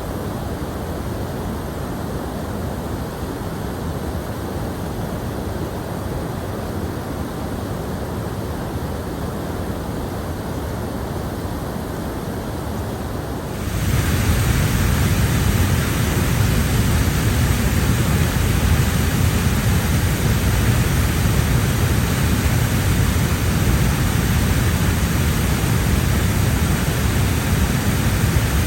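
Steady rushing of water, an even noise with no distinct events. About halfway through it jumps abruptly to a louder, fuller, deeper rush.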